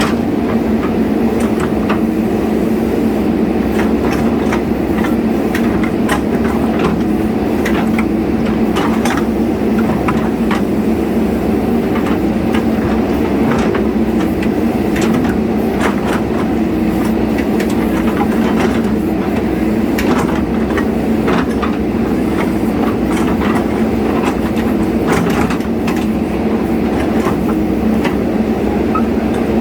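Diesel engine of a JCB 3DX Super backhoe loader running steadily, with irregular clanks and clicks over the drone.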